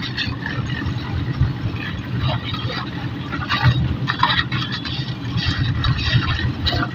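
An engine running steadily with a low rumble, with scattered short knocks and scrapes over it.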